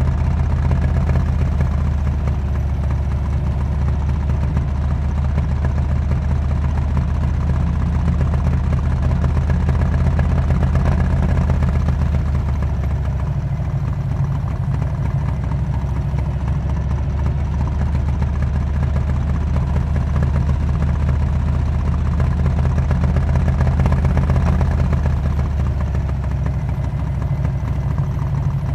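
Harley-Davidson Road King's V-twin engine running through a Cobra aftermarket exhaust, a steady low, deep note with small shifts in pitch about halfway through and again near the end.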